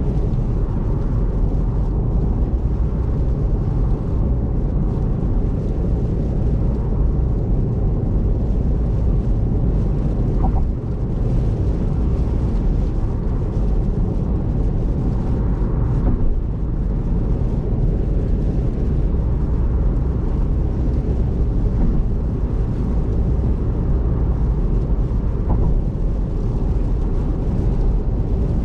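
Steady low rumble of a car travelling at expressway speed on a wet road: tyre and road noise with the engine underneath, heard from inside the cabin.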